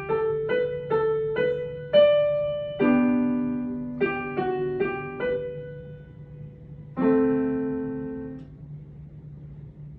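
Solo piano played at a slow pace, single notes and chords each struck and left to ring and fade. About seven seconds in, a held chord dies away and the playing pauses, leaving a low steady hum.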